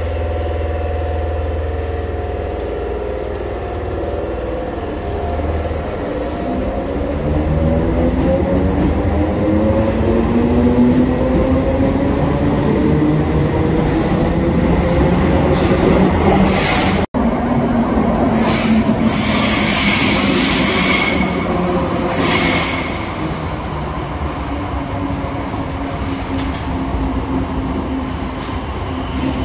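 ScotRail electric multiple-unit train standing at an underground platform with a steady low hum, then pulling away: from about six seconds in its traction motors whine, climbing steadily in pitch as it accelerates. About twenty seconds in come brief high wheel squeals, and then the steady rumble of the coaches rolling past; the sound cuts out for an instant just before the squeals.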